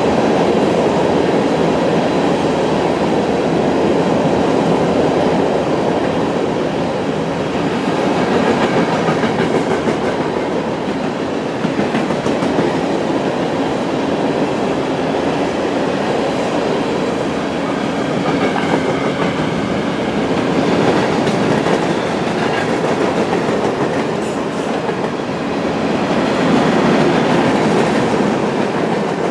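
A train rolling past close by: a steady, loud rumble of wheels on the rails, swelling a little a few times as the cars go by.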